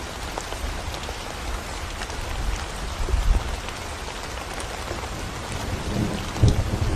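Steady rain falling on a concrete road, with scattered ticks of single drops. A low rumble of thunder swells near the end.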